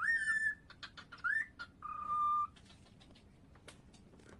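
Cockatiel whistling: a few short rising whistles in the first second and a half, then one steady held note about two seconds in, with scattered sharp clicks around them.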